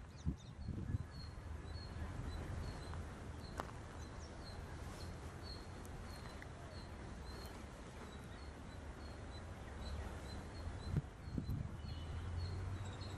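A bird repeating a short high chirp a few times a second, in runs, over a steady low rumble, with a few dull thumps near the start and near the end.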